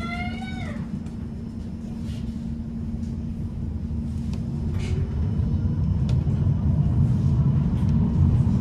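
Low rumble and steady hum of a tram running, heard from inside, slowly growing louder as it gathers speed, with a faint rising motor whine about halfway through and a few sharp clicks of the wheels over the rails.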